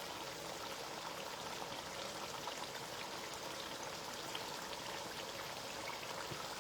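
Pot of spinach stew simmering on the stove: a steady sizzle flecked with small pops and crackles.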